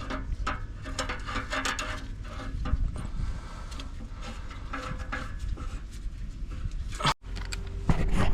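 Hand-tool work on metal parts: irregular clicks, rattles and scraping, cut off by a brief break about seven seconds in.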